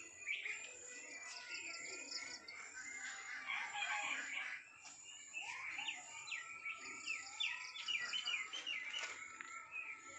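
Birds chirping and calling outdoors, many short repeated notes, with a quick run of rapid calls about six to eight seconds in.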